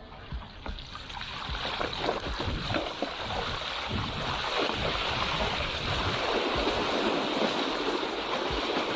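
Mountain bike riding through deep floodwater: the tyres churn and splash through the water in a continuous rushing wash that builds over the first couple of seconds and then holds steady.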